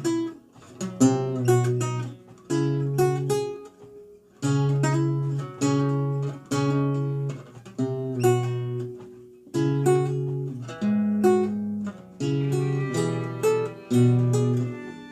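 Renaissance lute played solo: slow plucked chords and single notes over a low bass line, each note ringing and fading, with a brief lull about four seconds in.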